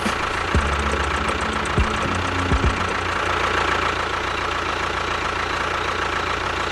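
A small motor running steadily with a faint high whine, with a few short low thumps in the first three seconds.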